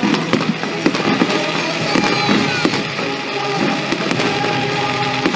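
Fireworks display with many bangs and crackles of bursting shells, packed closely together, over music playing along with the show.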